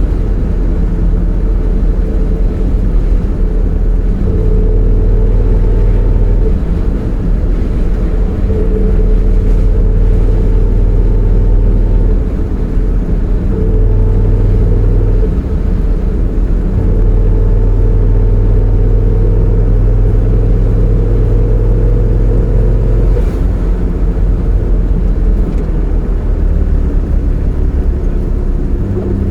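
Triumph TR6 PI's fuel-injected straight-six and drivetrain running steadily under way, a low rumble with a thin whine that drifts slightly in pitch. It is taken for an unidentified noise from the gearbox or overdrive.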